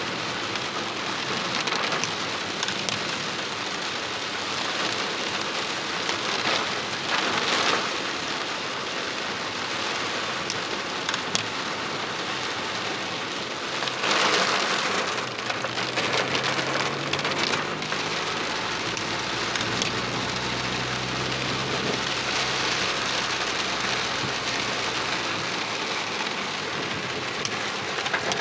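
Heavy rain pouring steadily onto surfaces, with louder surges about seven and fourteen seconds in. A low engine hum comes and goes in the middle.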